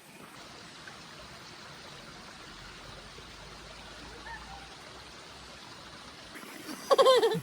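Shallow stream water running steadily. A short loud exclamation from a voice cuts in near the end.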